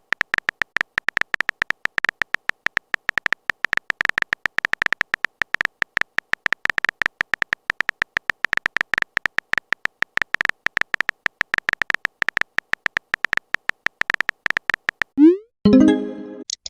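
Typing sound effect: a rapid, irregular stream of short clicks, each with a high ring. Near the end a short rising blip and a brief pitched chime sound, like a message notification.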